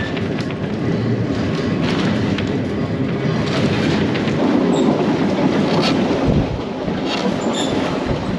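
Manx Electric Railway tram running along the track, a steady rumble with irregular clicks and knocks from the wheels.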